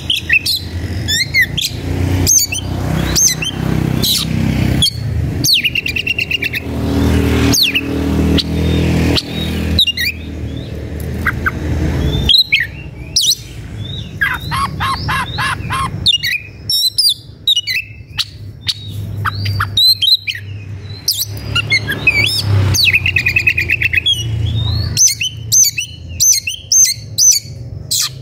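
Oriental magpie-robin singing aggressively in a rapid, varied run of whistles, chirps and fast trills, the challenge song of a bird agitated and seeking a rival.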